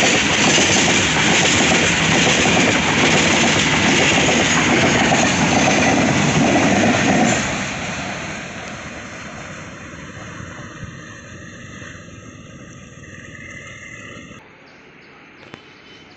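Loaded freight train wagons rolling past close by, their steel wheels running over the rails. About seven seconds in, the last van goes by and the noise fades as the train moves away, with faint squealing tones. Near the end it drops suddenly to a faint background.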